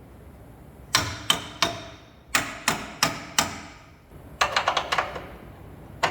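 Hammer blows on metal suspension parts, each with a short ringing decay: three strikes, then four more at an even pace, then a quick flurry of light taps, and one last strike near the end.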